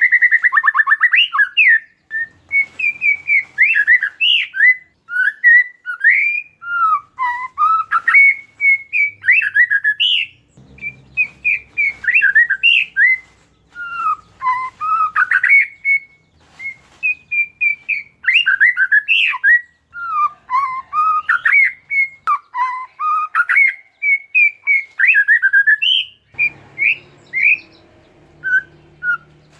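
Oriental magpie-robin (kacer) singing a fast, near-continuous song of varied whistles, rising and falling sweeps and chattering notes, the lively full song with mimicked phrases that keepers play to stir a silent bird into singing.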